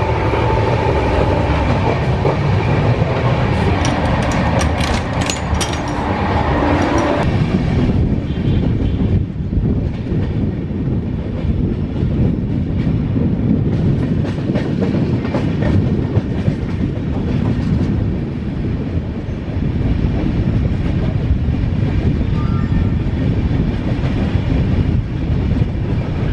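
Passenger train running along the track: a steady low rumble with wheels clicking over rail joints. A brighter, busier layer of sound on top of it cuts off abruptly about seven seconds in.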